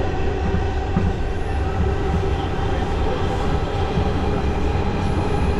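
New York City subway train running: a steady, loud rumble with faint steady tones over it.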